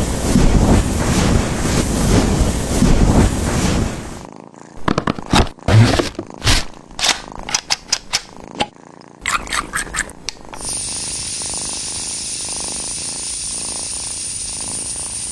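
Cat purring close up while being stroked. It gives way to a run of sharp clicks around the middle, then a steady hiss over the last few seconds.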